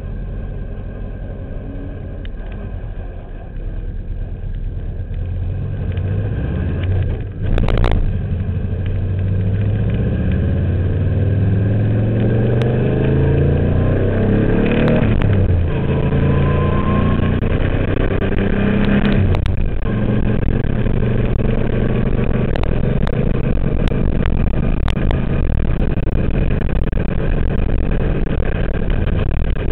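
Race car's twin-turbo Subaru boxer engine under hard acceleration, its note sweeping up and down with engine speed and broken by a few sharp gear-change cuts, about 8, 15 and 19 seconds in. It grows louder after the first of these.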